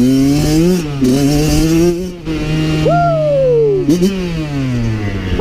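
Kawasaki KX112 two-stroke single-cylinder dirt bike engine revving hard under load up a steep hill climb, its pitch repeatedly climbing and dropping back. A long falling whoop-like tone sounds over it about three seconds in.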